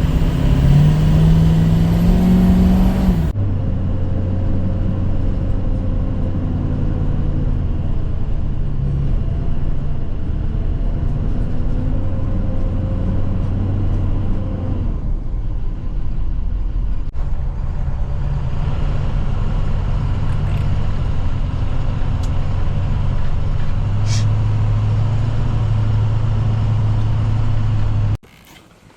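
Yamaha 300 outboard engine running under way, in several cut-together stretches: the pitch rises in the first few seconds, then holds steady, and the sound cuts off suddenly near the end.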